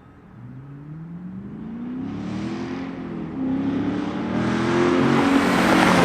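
Chevrolet Camaro SS's 6.2-litre V8 accelerating, its exhaust note rising in pitch over the first few seconds, then holding while it grows steadily louder.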